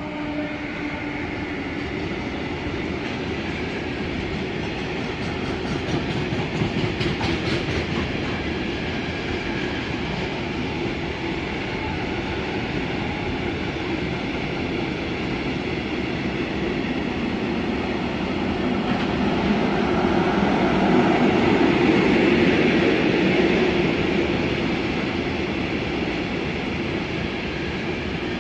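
A long freight train of tank wagons rolls past with a steady noise of wheels on rails. It grows louder about twenty seconds in, then eases off a little.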